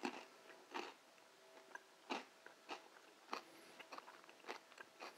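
Chewing a mouthful of crisp porchetta crackling (pork belly skin puffed hard in the oven): a string of short, sharp, irregularly spaced crunches.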